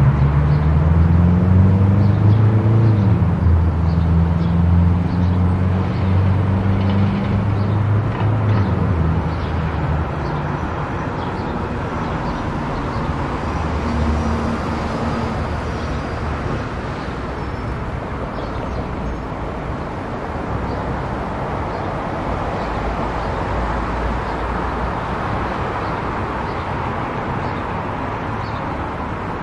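Car driving on a highway: steady road and tyre noise, with an engine note rising and shifting in pitch over the first several seconds before it sinks back into the road noise.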